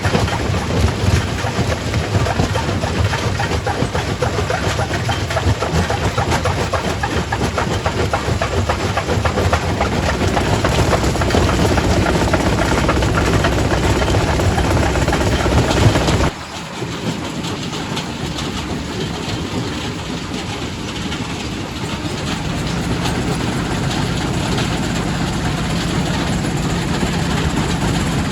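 Primary rock crusher working, rock clattering and grinding through it in a dense, irregular racket. About two-thirds of the way through the sound cuts off suddenly, giving way to a quieter, steadier heavy-machine hum.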